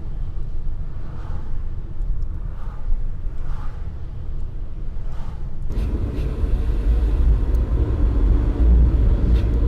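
Steady low rumble of road and engine noise heard from inside a 1.2-litre, 85 hp Opel Corsa as it drives along. About six seconds in the rumble grows louder and coarser.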